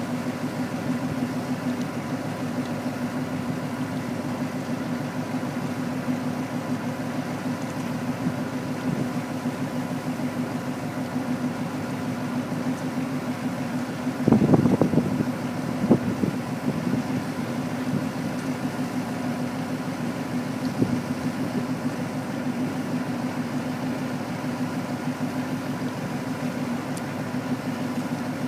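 A truck engine idling steadily at a constant pitch. A brief, louder clatter comes about halfway through, followed by two sharp knocks.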